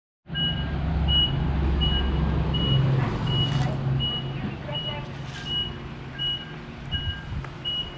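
Truck's reversing alarm beeping steadily, about four beeps every three seconds, over the low running of its engine, which is louder for the first few seconds and then eases off.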